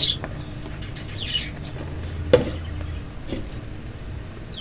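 Slime being stirred in a bowl with a utensil: soft, scattered squishy noises and one sharp click of the utensil against the bowl about two seconds in, over a steady low hum.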